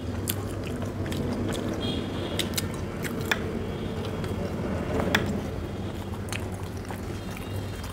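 Close-miked chewing and biting of puri soaked in curry, with wet mouth sounds and sharp smacking clicks scattered through it, over a steady low hum.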